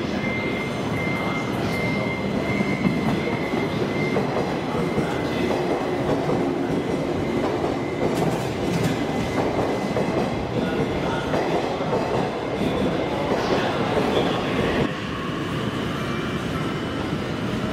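A 185 series electric train pulling slowly into a station platform: wheels clacking over the rail joints amid a steady running rumble, with a thin high whine that fades after the first few seconds. About fifteen seconds in, the sound drops suddenly to a quieter level.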